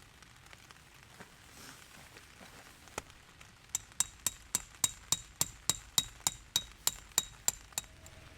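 A hammer driving a metal tent peg: one knock, then a quick steady run of about fifteen ringing metallic strikes, roughly three and a half a second, that stop near the end.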